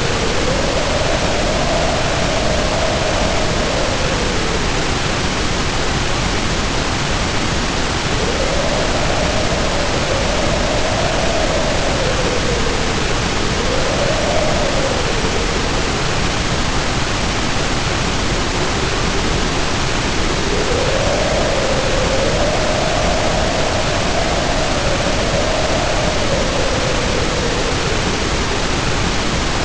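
Storm sound: heavy rain pouring as a steady dense hiss, with wind howling over it in long swells that rise and fall in pitch, about four of them, separated by gaps.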